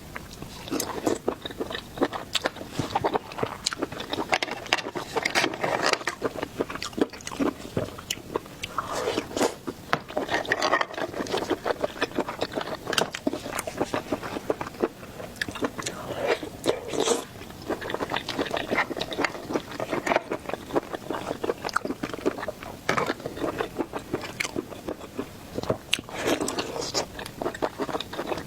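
Close-up eating of shellfish: biting and chewing, with shells cracking and crunching in a dense, irregular run of sharp clicks.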